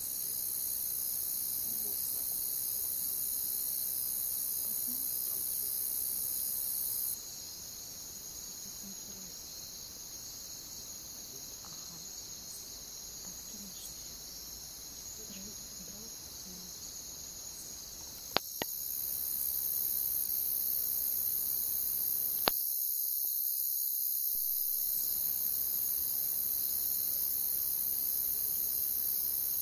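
Crickets chirping in a steady, high-pitched chorus; the higher layer of the chorus falls away for several seconds midway, then returns. Two sharp pops from the crackling campfire stand out a little past the middle.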